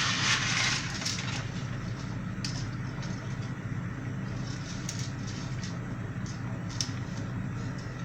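A steady low hum with a few light, sharp clicks and taps scattered through it, from pasta and a pot being handled over boiling water.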